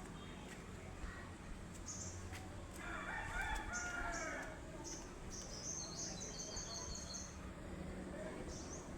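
A rooster crowing once, a call of about a second and a half starting about three seconds in, while small birds chirp in quick, high-pitched runs of notes.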